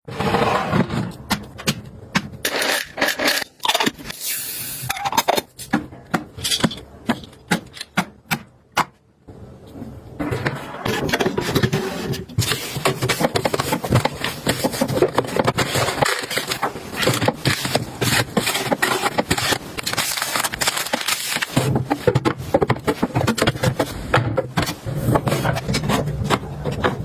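Food packaging and containers being handled: a string of separate taps and clacks, then, about ten seconds in, a steady run of rustling and scraping.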